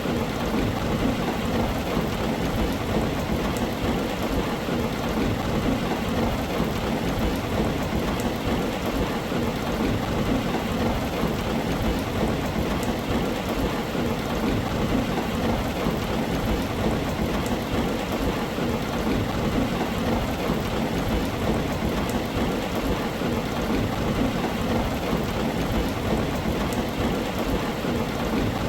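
Heavy rain falling steadily on a tin roof, a dense even patter with a low rumble of thunder underneath.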